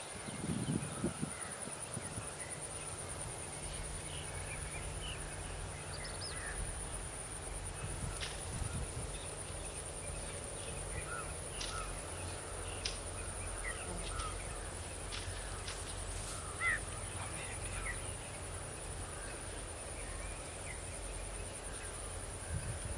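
Outdoor rural ambience of scattered short bird chirps and calls, one a little louder past the middle, over a steady high-pitched whine and a low steady hum.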